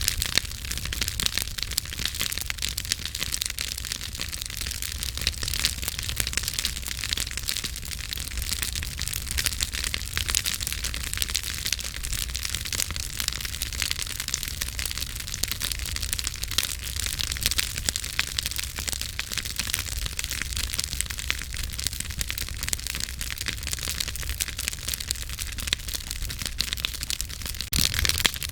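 Campfire burning with steady crackling and frequent sharp pops, over a constant low rumble.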